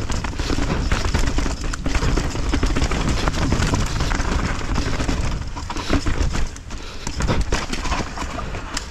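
Mountain bike riding down a rough trail: the tyres, chain and frame rattle and knock over the ground, under a steady rumble of wind on the helmet camera's microphone. It eases off a little about two-thirds of the way through.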